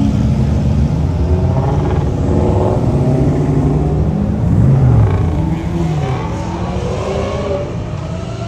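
A car's engine revving and accelerating as it drives off, its pitch rising and falling; loudest about five seconds in, then fading as it pulls away.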